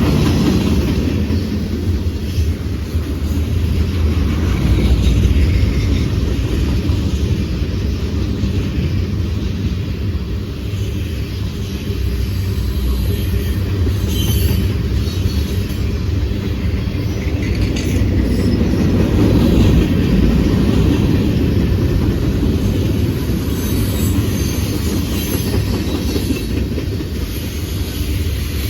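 Train running on rails: a steady low rumble of wheels and cars, with brief high-pitched squeals now and then.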